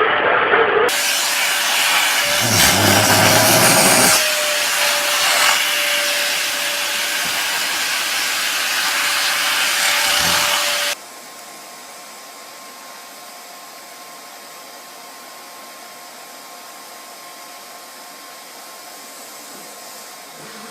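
Vacuum cleaner running loud and steady with a held whining tone. About halfway through it cuts off abruptly to a much quieter steady hum.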